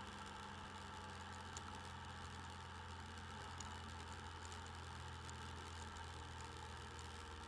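Motorcycle engine running at a steady, unchanging speed, picked up by a camera microphone mounted on the bike.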